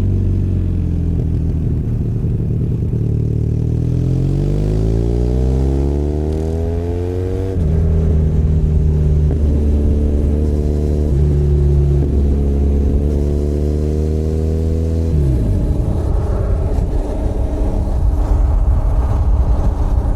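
Benelli Leoncino 500 Trail's parallel-twin engine under way: the revs fall for the first few seconds, climb again, and drop sharply at a gear change about seven and a half seconds in. They then hold steady until about fifteen seconds in, when they fall off and the engine note turns rougher.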